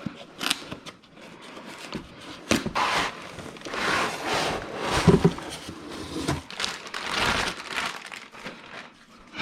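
Packaging crinkling and rustling, with scattered knocks and clicks, as a new jigsaw is unpacked from its box.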